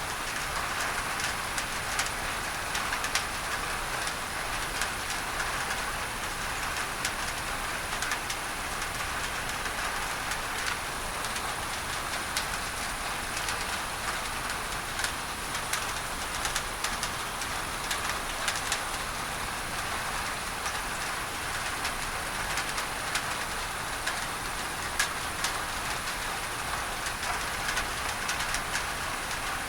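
Steady rain on a tin roof, with many sharp little drop ticks, mixed with a constant hiss of pink masking noise.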